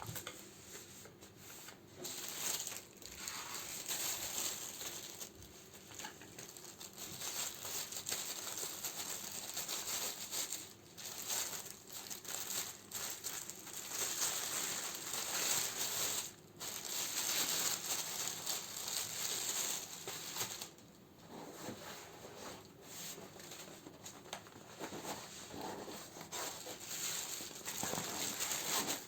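Plastic and paper candle wrappings crinkling as they are handled, in irregular stretches with brief pauses.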